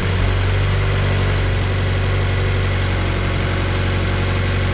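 Mazda CX-5's 2.0-litre SkyActiv-G four-cylinder petrol engine idling steadily just after start-up, heard from the open engine bay. This is its first run on fresh oil after an oil and filter change, circulating the oil through the engine.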